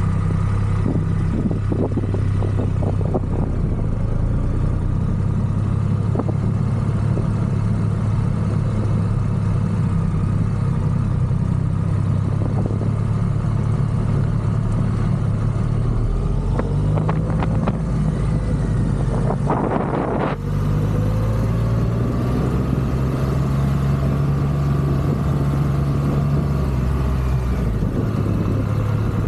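Triumph Rocket 3 motorcycle's three-cylinder engine running, its engine note changing pitch a few times as it idles and pulls away, with a few clicks along the way.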